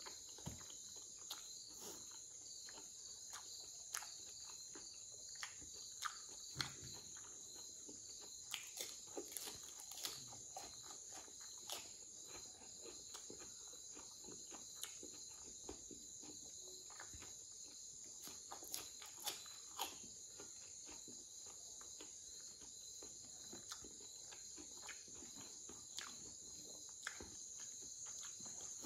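Close-up mouth sounds of eating by hand: chewing and lip-smacking on cooked pork with rice and raw onion, heard as short sharp clicks scattered throughout. Behind them runs a steady high-pitched chorus of crickets.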